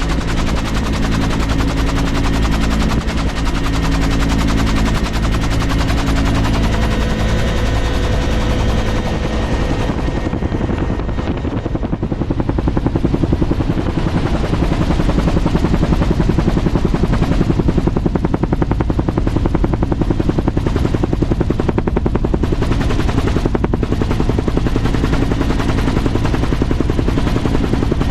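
Aircraft running close by: a loud, fast, even pulsing over a steady low drone. The high hiss fades about ten seconds in and the pulsing grows a little louder.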